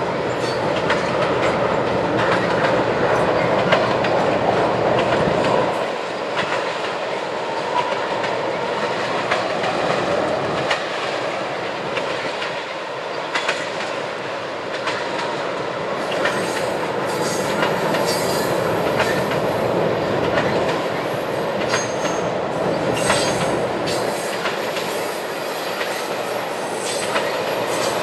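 Train rolling past at track side, its wheels clicking over the rail joints without a break. In the second half, brief high-pitched wheel squeals come and go.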